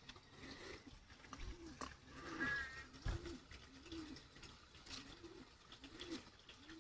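A bird repeating a short, low, arched cooing note about once a second, with a brief higher chirp from another bird about two and a half seconds in.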